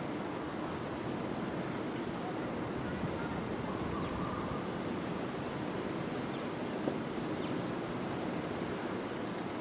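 Steady rushing noise of wind, with no pitched sound standing out.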